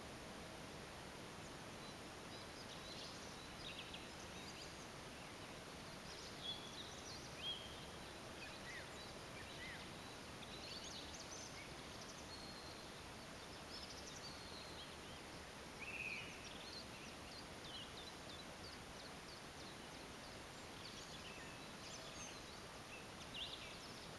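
Songbirds singing and chirping in short, scattered phrases, several overlapping, over a steady outdoor background hiss.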